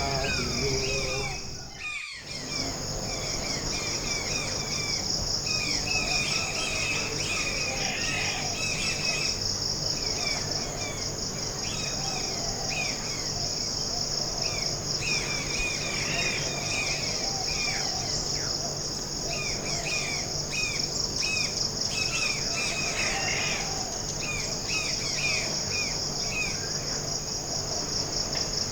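Forest ambience: a steady, finely pulsing high-pitched insect chorus, with many short bird chirps over it. All the sound dips briefly about two seconds in.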